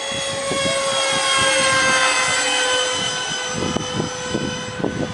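Twin E-flite 4800 kV electric ducted fans on a radio-controlled Airbus A330 model whining in flight. The whine swells about two seconds in, and its pitch drops as the plane passes by.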